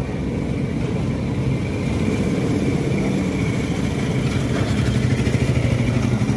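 A moving train running with a steady low rumble, growing a little louder, with a fast even pulsing in its second half.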